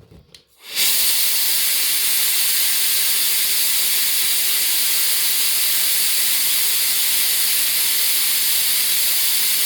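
Wolfbox MF200 electric air duster blowing air to drive a small two-cylinder air engine: a loud, steady hiss that starts about a second in.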